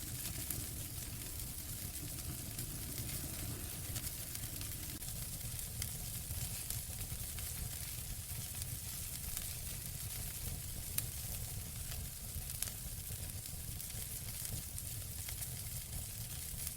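Wood fire burning in a fireplace: a steady hiss with scattered small crackles and pops, two sharper pops a little after the middle.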